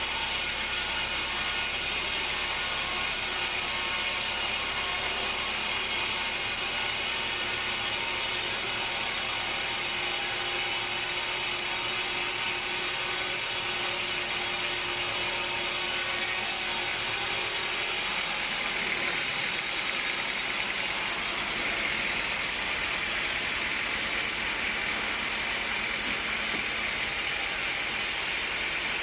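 Steady mechanical noise of sawmill machinery running, a constant hiss-like din with faint steady hums; the low hum drops away about two-thirds of the way through.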